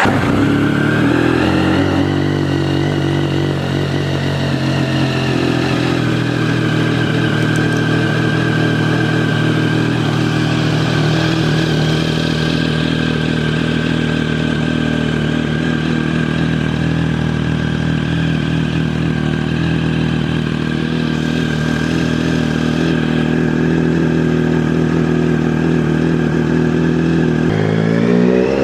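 Triumph Speed Triple's 1050 cc three-cylinder engine, breathing through a Competition Werkes aftermarket exhaust, idling steadily just after being started. Near the end the throttle opens and the revs rise.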